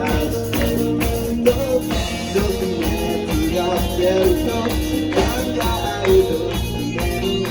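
A rock song with a sung melody over drum kit and guitar.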